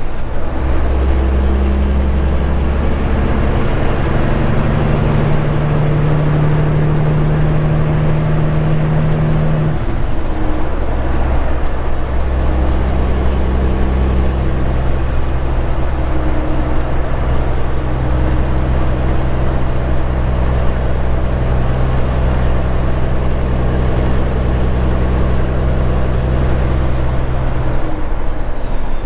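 Straight-piped Caterpillar 3406E diesel in a Kenworth W900 pulling steadily on the road, with a deep exhaust drone and a high turbo whistle from its PDI stage 1 turbocharger. The whistle rises over the first few seconds, then slowly sinks; about ten seconds in the engine note and the whistle drop together and settle at a new pitch.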